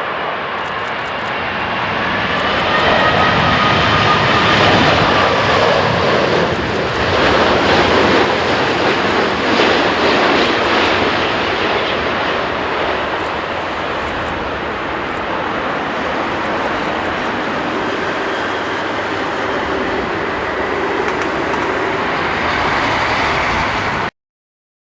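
Jet engines of a Boeing 787 airliner flying low overhead: a loud rushing sound with a faint whine that bends in pitch. It swells over the first few seconds, holds, and cuts off abruptly near the end.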